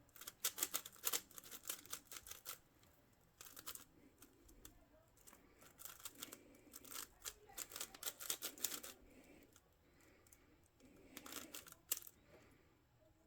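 A plastic twisty puzzle cube being turned by hand: quick runs of clicking layer turns in four bursts, with short pauses between them.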